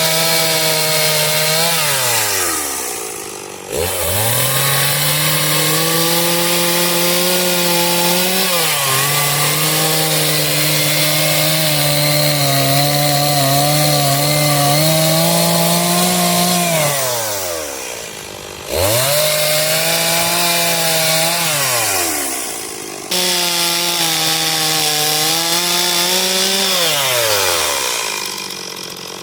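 Two-stroke chainsaw cutting into a log to carve out a bear's ears, run at full throttle for long stretches. Its pitch falls away four times as the throttle is let off and jumps back up three times as it is revved into the wood again.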